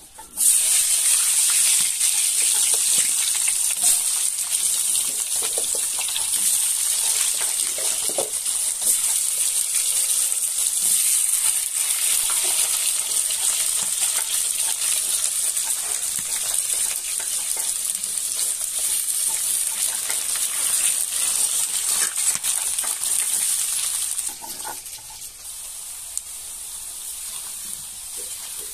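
Cut potato pieces frying in hot mustard oil in a kadai. The sizzle is a loud, steady high hiss that starts suddenly as the potatoes go in, about half a second in, and eases a few seconds before the end.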